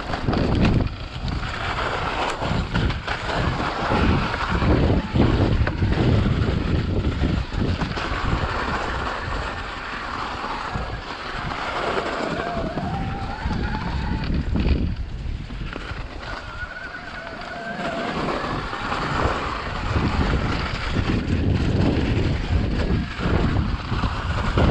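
Wind rushing and buffeting against the microphone of someone riding along at speed. It is a steady, rough noise that swells and dips, with a faint tone sliding up and down now and then.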